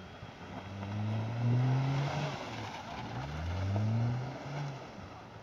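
Daihatsu Terios small SUV engine revved hard twice, its pitch rising each time, as the car drifts and spins its wheels on packed snow.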